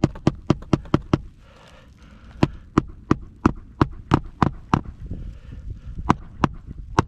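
Hammer blows on an asphalt shingle roof, sharp strikes about three a second in three runs with short pauses between, as nails or a pry bar are driven.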